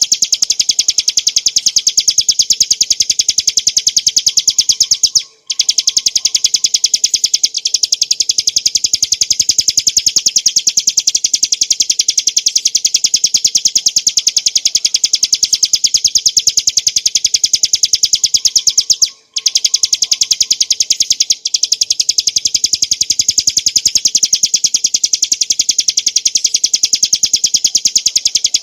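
Bar-winged prinia (ciblek gunung) singing: a loud, fast, even rattle of high repeated notes that runs on without a break except for two brief pauses, about five seconds in and near twenty seconds in.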